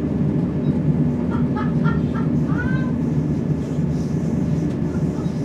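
Interior running noise of a Class 170 Turbostar diesel multiple unit on the move: a steady low rumble from its underfloor diesel engines and running gear. About a second and a half in, a short string of high chirping notes ends in one gliding note.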